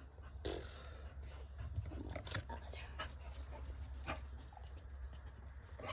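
A dog panting and whimpering, with scattered clicks over a low steady hum.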